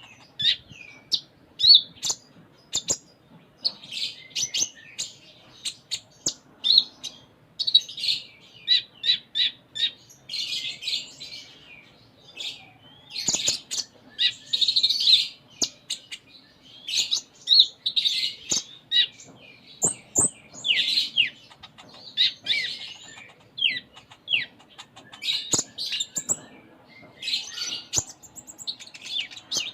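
Kolibri ninja (a sunbird, 'konin') singing in full voice: rapid, high chirping and twittering phrases, one after another with short pauses.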